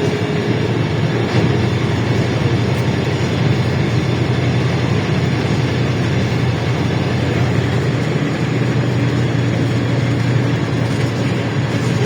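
LiAZ-677M city bus under way, its ZIL V8 petrol engine and drivetrain running steadily with a low hum over road noise.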